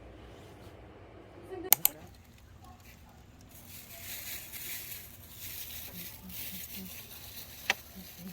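Two sharp clicks a little under two seconds in. From about three and a half seconds in comes a steady high hiss of meat sizzling on a barbecue grill, with one more click near the end.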